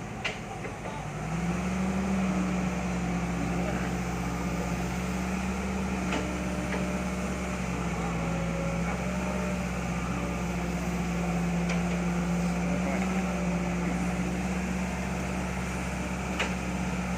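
A motor starts about a second in and runs at a steady pitch with a constant hum.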